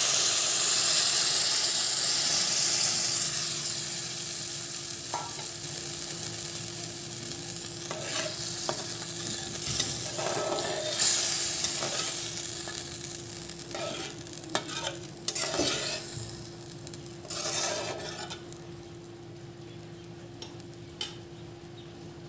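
Cooked mung dal poured into hot oil and spices in a kadai, sizzling loudly at first, the sizzle dying down over the first few seconds. Then a spatula stirs and scrapes the pan at intervals, over a faint steady hum.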